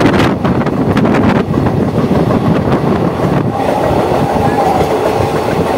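Express train's coach running at speed, heard at an open window: a steady rumble of wheels on the rails with clicks over rail joints. A steady whine joins about three and a half seconds in.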